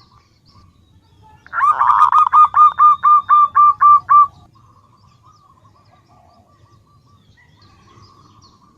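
Female zebra dove (perkutut) calling to males: a quick, loud run of about a dozen short notes about a second and a half in, followed by a fainter stretch of rapid notes.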